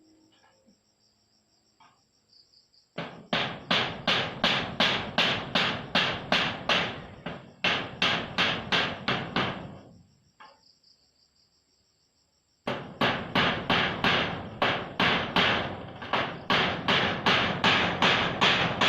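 Hammer nailing corrugated zinc roofing sheet to a frame: quick, evenly spaced blows, about two to three a second. The blows come in two long runs, the first starting about three seconds in and stopping near the middle, the second starting again about two seconds later.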